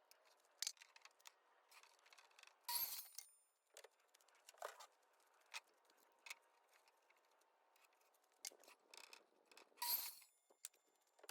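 Faint, scattered light clicks and taps of small hard objects being handled, with two louder ringing metallic clinks, one about three seconds in and one near the end.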